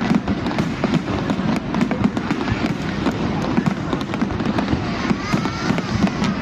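A fireworks display: a dense, unbroken stream of crackling pops and low booms, with crowd voices underneath.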